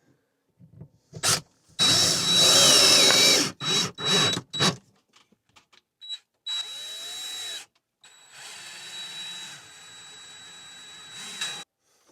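Power drill running in separate trigger pulls with a steady high whine: one long loud run about two seconds in, a couple of short blips, then two quieter, steadier runs in the second half.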